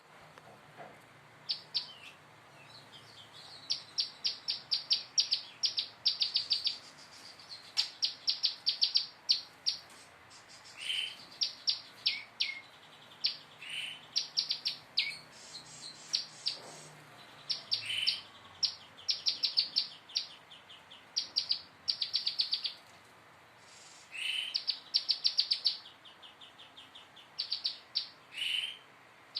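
Prenjak lumut (a small Indonesian tailorbird-type warbler) singing in repeated bursts of sharp, high, rapid-fire notes, about eight a second and each burst around a second long, some opening with a short falling note. This is the 'nembak' rapid-fire phrase the bird is still learning.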